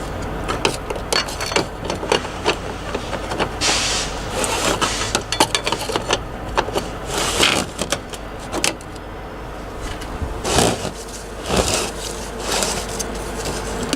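Hands working the twist collar and cover loose on a Davco Fuel Pro 382 fuel filter housing: a string of sharp plastic clicks and scrapes with several louder scraping handling noises, over a steady low hum.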